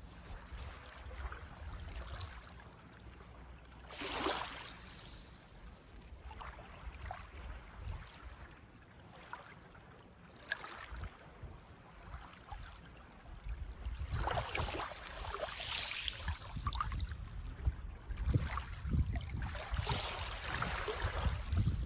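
Small waves washing up on a sandy beach, in surges of hiss a few seconds apart that grow louder toward the end.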